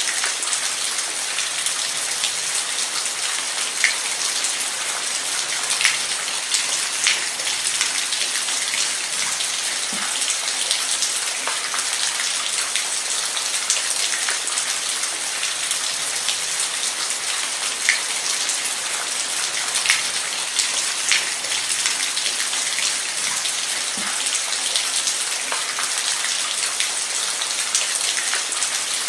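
Steady rain, a dense even hiss with louder single drops ticking now and then, with no thunder.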